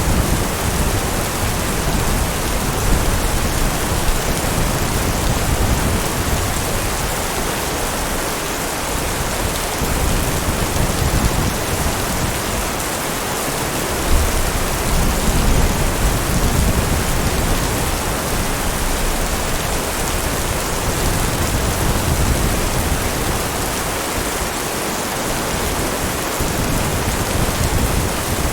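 Heavy rain falling steadily, with low rumbles of thunder that swell and fade several times.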